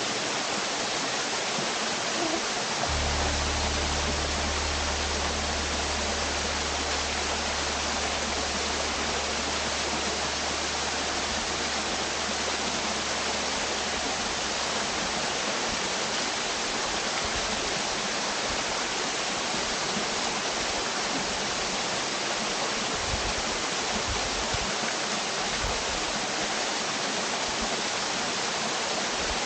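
Cascading brook waterfall rushing steadily, an even hiss of falling water. A low steady hum runs underneath for the first half.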